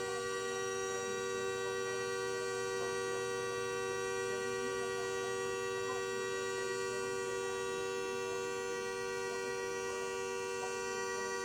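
A steady electrical or machine hum made of several fixed pitches, unchanging throughout.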